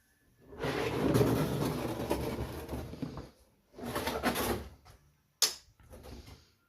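Scraping, rustling handling noises, a long stretch then a shorter one, followed by a single sharp click.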